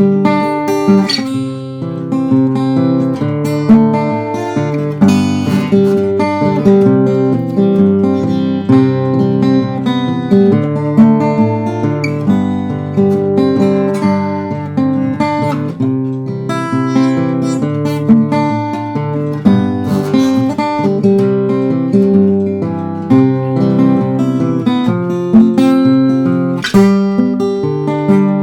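Acoustic guitar strummed in a steady rhythm, an instrumental break in a folk song with no singing.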